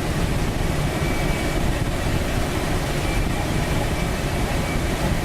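Steady rush of air over a glider's cockpit during an aerotow at about 70 mph, with a low drone underneath.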